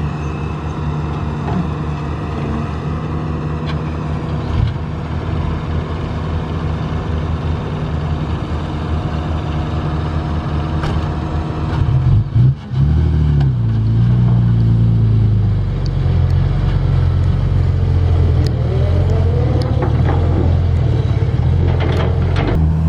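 A heavy diesel engine of construction machinery running steadily. About twelve seconds in, the sound breaks off briefly and comes back louder and deeper, with a short rise in pitch.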